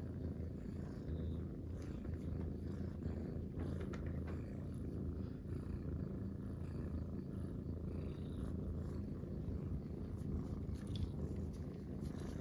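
Munchkin cats purring together: a steady, continuous low rumble.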